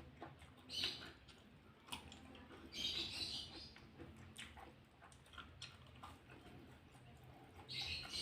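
Close-up eating sounds: chewing with wet lip smacks and clicks, and short crackly bursts about a second in, around three seconds in, and near the end.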